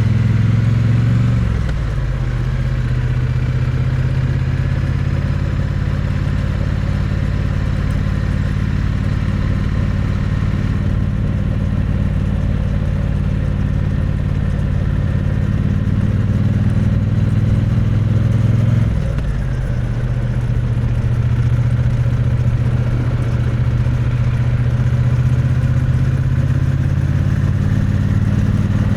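Triumph Bonneville T100's parallel-twin engine and exhaust running under way, heard close to the exhaust pipe. The engine note rises, drops sharply about a second and a half in and again about nineteen seconds in, then climbs slowly near the end.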